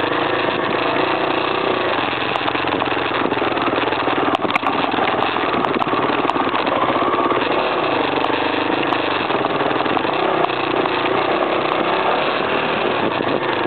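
Off-road trail motorcycle's single-cylinder four-stroke engine running steadily as the bike rides along a rough grassy lane. A few sharp knocks come through about four to six seconds in.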